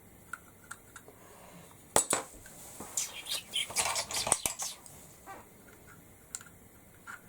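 A small craft paint container being worked open by hand: a sharp click about two seconds in, then a run of clicks and rattles of the lid and container.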